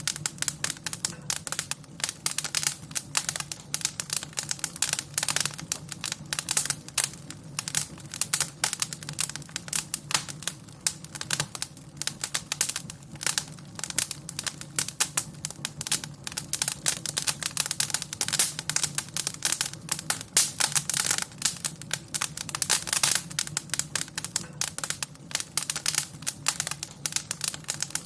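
Fire in a fireplace crackling steadily: a dense, irregular run of small pops and snaps over a low, steady hum.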